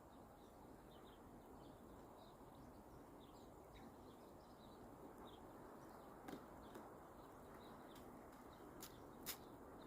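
Faint chirping of small birds, short high calls scattered throughout over a steady hiss, with a few sharp clicks in the second half.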